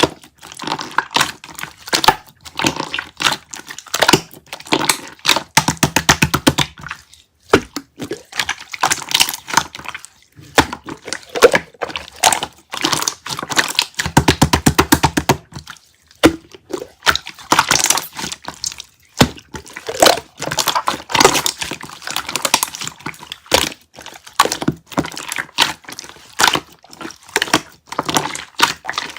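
Close-miked wet squishing, crackling and clicking of clear konjac jelly, with two stretches of fast, even clicking.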